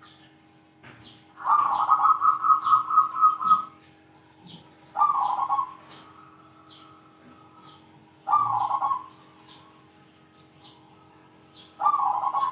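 Zebra dove (perkutut) cooing in four phrases of rapid, pulsing notes: a long phrase of about two seconds starting about 1.5 s in, then shorter ones at about 5, 8 and 12 seconds. Faint high chirps sound between the phrases over a steady low hum.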